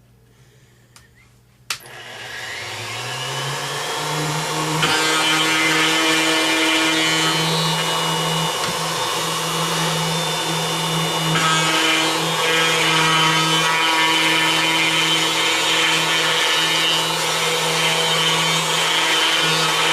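Porter-Cable plunge router switched on with a click, its motor whine rising as it spins up to speed, then running steadily. About five seconds in, a harsher rasping noise joins as the bit starts routing letters into a wooden board.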